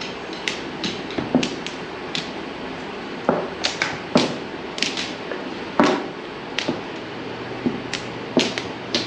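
Mahjong tiles clacking on the table as they are drawn and discarded: a dozen or so irregular, sharp clicks, the loudest a little past the middle.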